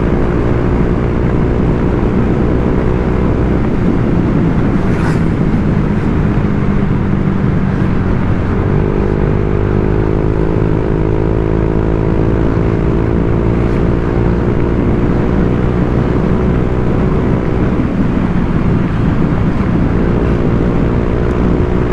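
Honda Vario 125 scooter under way, its single-cylinder engine running through an aftermarket TZM racing-standard exhaust. The engine note stays steady, dips about eight seconds in, then climbs slowly in pitch as the scooter picks up speed.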